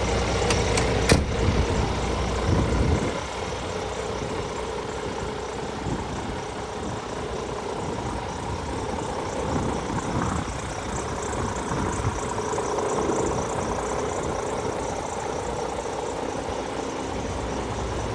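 Scania truck's diesel engine running at idle. A sharp click comes about a second in, and the deep low rumble drops away about three seconds in, leaving a lighter, steady engine sound.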